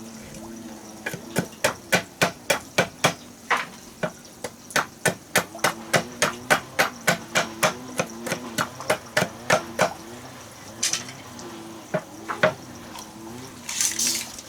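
Rapid series of hammer blows on wood, about three to four strikes a second with a short pause partway, then a few scattered knocks near the end.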